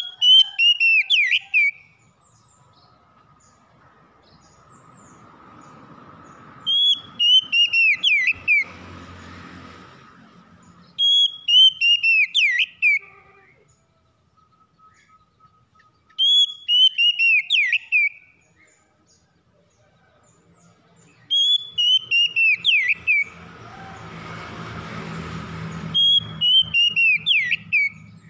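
Oriental magpie-robin (kacer) singing the same short phrase of clear whistled notes that step downward in pitch, repeated six times about every five seconds. A faint low rushing noise swells twice between the phrases.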